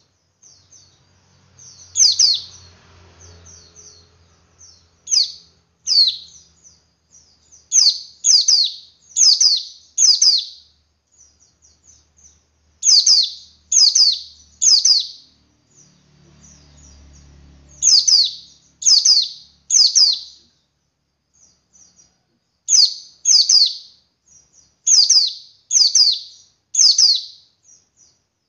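Male white-eye (pleci dakun) calling: loud, sharp down-slurred chirps in runs of two to four about a second apart, joined by soft, rapid twittering (ngeriwik).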